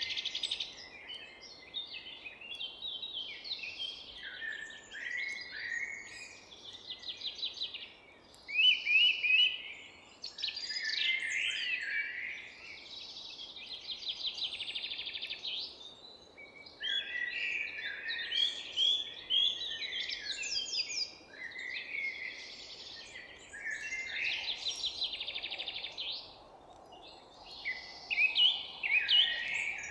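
Chorus of forest songbirds: several birds singing at once in overlapping phrases, trills and chirps, over a faint steady background noise.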